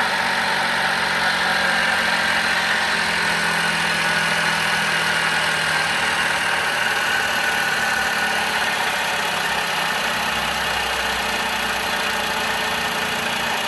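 Car engine idling with an abnormal steady noise, loudest high up, coming from a loose water pump.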